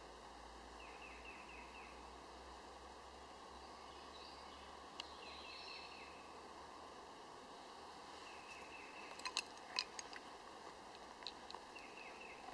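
Faint outdoor ambience with a bird's short, high, falling chirps coming in quick runs several times. A few sharp clicks sound about three-quarters of the way through and are the loudest events.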